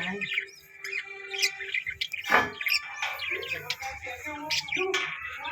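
Budgerigars chirping and chattering in many short, high calls, with one sharp knock about two seconds in.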